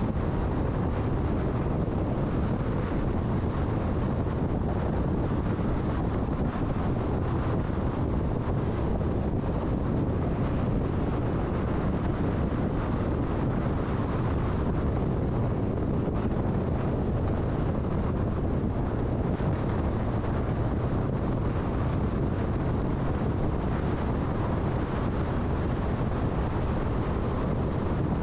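Steady road and wind noise of a car driving at freeway speed: an even low rumble and rush with no changes.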